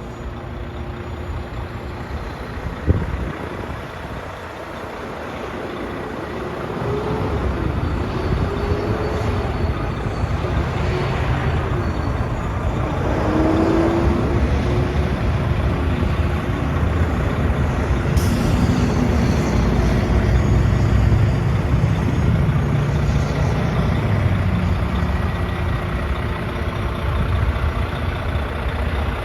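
Volvo D13 diesel engine of a heavy roll-off truck running, its low rumble growing louder about seven seconds in. A sharp click comes near the start, and a brief hiss of air about two-thirds of the way through.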